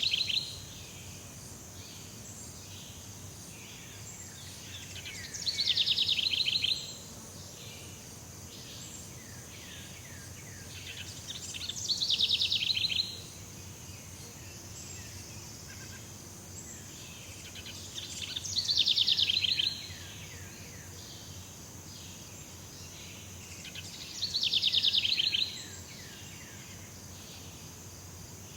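Jungle ambience: a steady high insect drone, with a loud, rapid trilling call that repeats about every six seconds. Each call lasts about a second and is led in by fainter falling notes.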